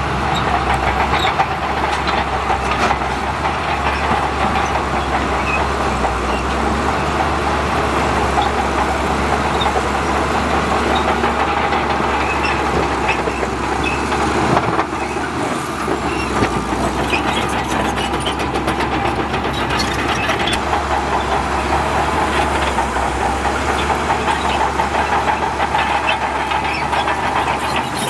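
Diesel engines of heavy earthmoving machinery running steadily under work, with a brief dip and change in the sound about halfway through.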